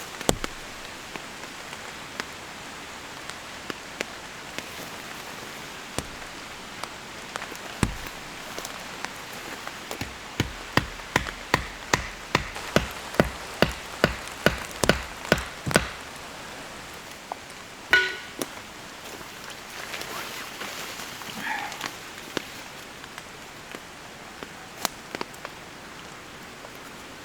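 Steady rain falling, with a run of about a dozen sharp strikes, roughly two a second, in the middle.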